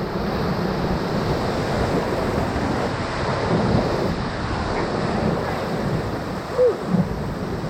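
Rushing whitewater of the Ocoee River around a paddle raft, a steady dense roar with wind buffeting the microphone. A brief shout is heard about three-quarters of the way through.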